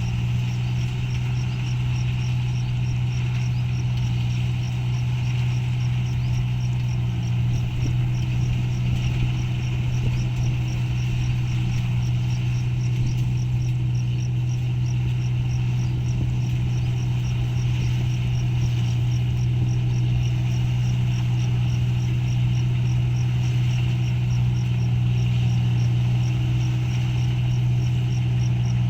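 Paddy combine harvester running steadily while cutting rice: a constant loud engine drone, with a faint high ticking repeating about twice a second.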